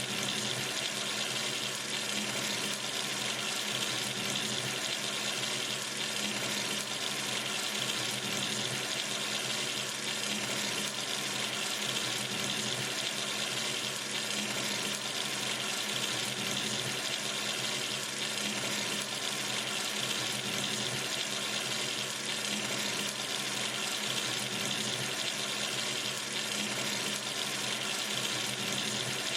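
Water running steadily from a sink tap, an even, unbroken splashing hiss.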